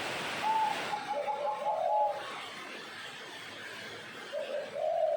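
Zebra dove cooing: a quick run of short, soft cooing notes in the first couple of seconds, then another phrase near the end, over a steady background hiss.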